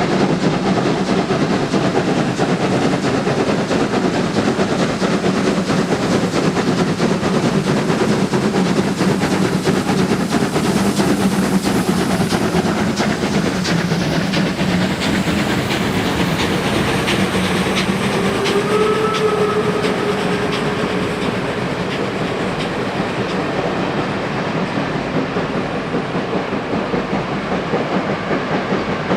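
Train running along the track, a steady rumble with a rhythmic clickety-clack of wheels over rail joints through the middle. A short steady tone sounds about two-thirds of the way through.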